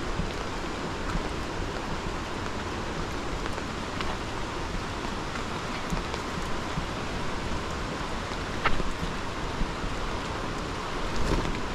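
Heavy rain falling steadily, with a few louder drips striking a surface now and then.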